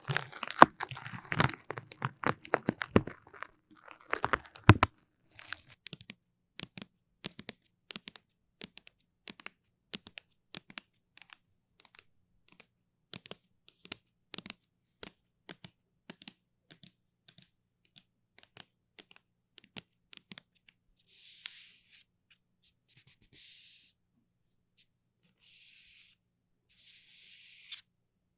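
Sticky crackling and peeling of a tacky surface handled close to the microphone: a dense run of sharp crackles for the first five seconds, then scattered single clicks. Near the end come four short hissy swishes.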